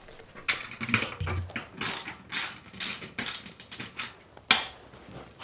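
Ratchet wrench clicking in short back-and-forth strokes, about two a second, stopping shortly before the end.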